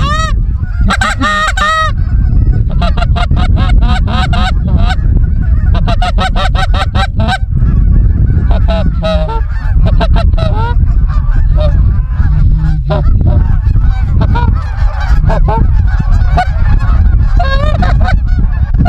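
Goose honks and clucks, many in rapid, overlapping succession, over a steady low rumble.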